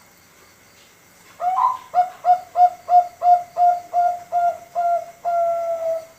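A young male Thai-bred zebra dove (perkutut bangkok) singing a contest-style song. It gives a quick, evenly spaced run of about eleven short coos, then ends on one longer held coo.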